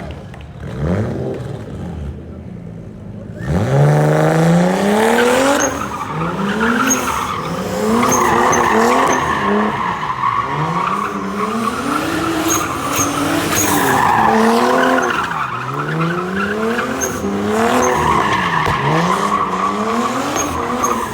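A drift car's engine revving hard, its pitch climbing and dropping again and again, while the tyres squeal through the slide. The first few seconds are quieter, with a couple of short revs before the car is pushed hard.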